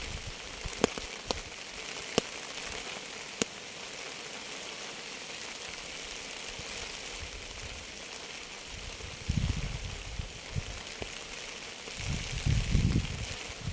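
Steady rain hiss, with a few sharp single drop ticks in the first few seconds. From about nine seconds in, uneven low rumbling comes and goes over the rain and grows louder near the end.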